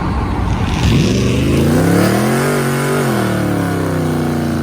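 A car's engine and exhaust at full throttle in a hard pull, the pitch climbing for about a second and a half, holding briefly, then falling away over the last two seconds.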